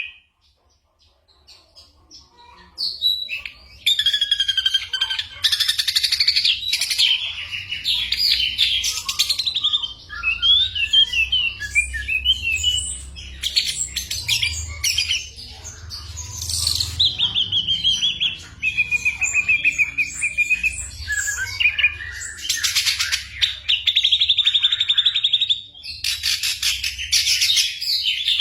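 Ashy drongo singing a varied, mimicking song of clear whistles, quick trills and harsh buzzy notes, starting after a brief near-silent pause about three seconds in.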